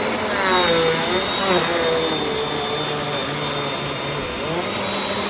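Bissell CleanView Compact 3508 upright vacuum cleaner running at full suction. Its motor sound is a steady rush with a thin high whine, and its pitch sags early on and rises again near the end as the vacuum is worked over the floor.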